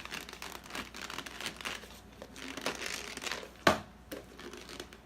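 Plastic snack packaging crinkling as it is handled, a run of small crackles with one sharper crackle about two-thirds of the way in.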